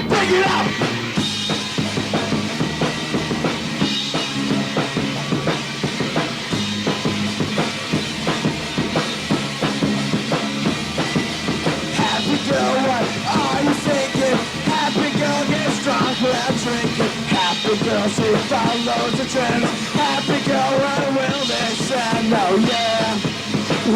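Punk band's rough four-track demo recording playing: a drum kit with bass drum, together with guitar and bass in a loud, continuous rock passage.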